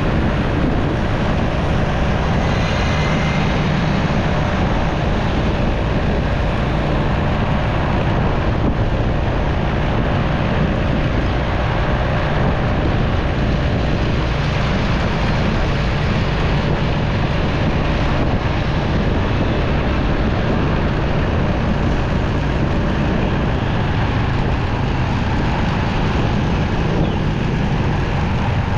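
Motorcycle running steadily on the move, with wind rushing over the microphone and road traffic around it.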